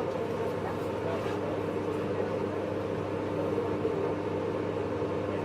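Steady running noise inside a motor car of a JR East 583 series electric train, with a constant rumble of wheels on rail and a steady hum from the running gear.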